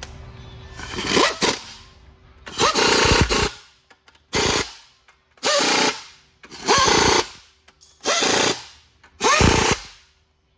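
Air impact wrench hammering in seven short bursts, about a second and a half apart, as bolts are run in on the truck transmission case.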